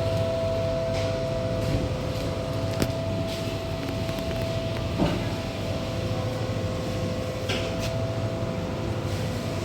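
Steady hum of shop freezers' refrigeration units, holding two even tones over a low hum, with a few faint clicks.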